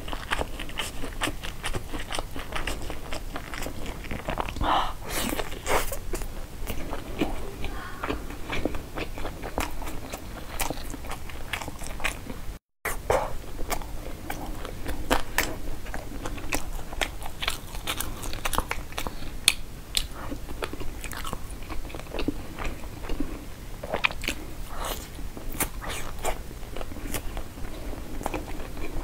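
Close-miked mouth sounds of biting and chewing sushi rolls: a dense run of soft wet smacks and clicks, with a brief dropout to silence about halfway.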